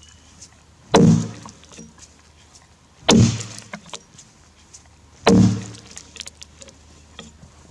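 Three axe strikes about two seconds apart, a Tassie pattern axe biting into a Grey Gum log, each a sharp chop with a short low ring.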